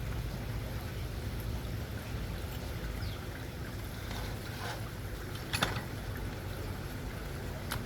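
A steady low rumble of background noise with a few sharp clicks from work on the chainsaw, one louder clack about two-thirds of the way through.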